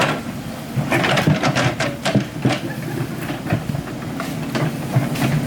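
Excavator's diesel engine running steadily, with irregular metallic clanks and knocks from the machine working.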